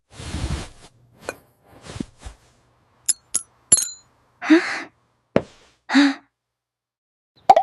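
A string of short cartoon sound effects: a soft breathy rustle, a few light taps, three high glassy clinks about three seconds in, then two short pitched cries a second and a half apart.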